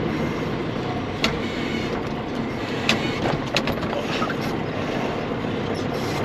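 Steady blizzard wind blowing over the microphone, with a few sharp clicks and knocks about one, three and three and a half seconds in.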